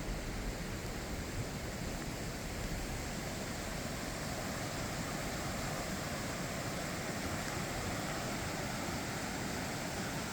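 Steady, even rushing of running water: a stream swollen by heavy rain into a flood.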